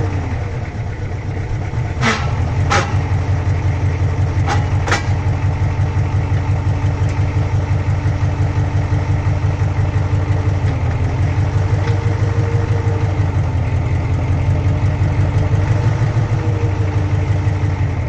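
Ford 6.9L diesel V8 idling with a fast, even pulsing beat. Four sharp clicks come about two, three, four and a half and five seconds in.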